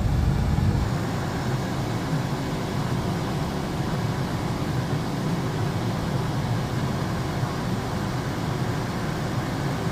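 The 1975 Pontiac Grand LeMans's V8 idling steadily while its air conditioning is being recharged, with a low, even rumble. The deepest part of the rumble eases about a second in.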